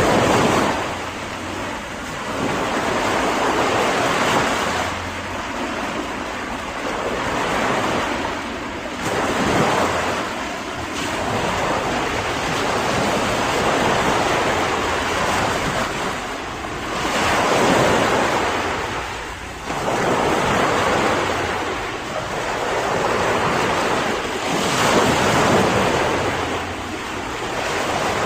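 Ocean waves breaking and washing on a shore, the surf swelling and ebbing every few seconds, with some wind.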